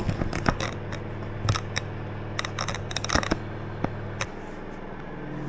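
A series of sharp clicks and snips from objects being handled, over a steady low hum that cuts off about four seconds in.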